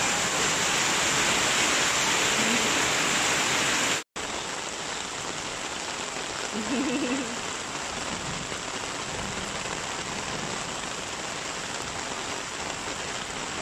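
Heavy rain pouring down, a steady hiss of falling water. The sound cuts out for a moment about four seconds in and then goes on a little quieter.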